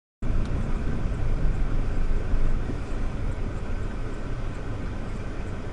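Steady rumble of a car driving, road and engine noise heaviest at the low end, cutting in abruptly just after the start and easing slightly in level after about three seconds.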